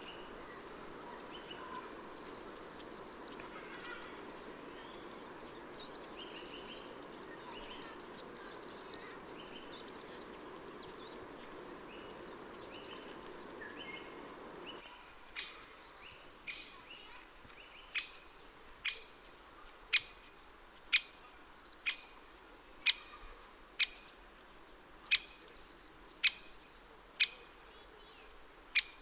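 Small garden songbirds chirping and calling. In the first half many chirps overlap in a busy chatter. From about halfway, one call repeats every few seconds: a sharp high note followed by a quick run of short even notes, with scattered short ticks between.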